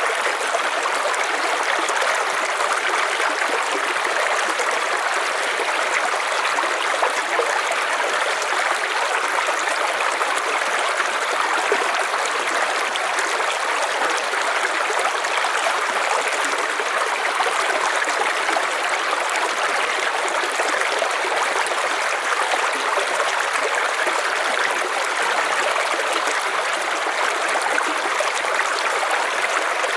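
River water flowing and splashing over stones, a steady rushing with no change in level.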